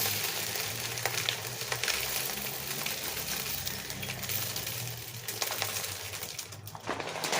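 Birdseed being poured into a bird feeder: a steady hiss of small seeds trickling and pattering, with scattered light ticks, easing off near the end.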